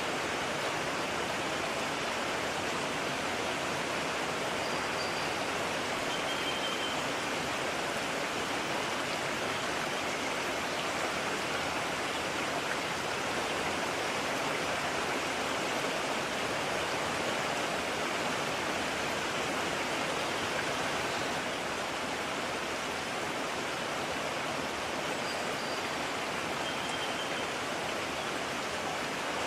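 Steady rush of a mountain stream, flowing water with no let-up.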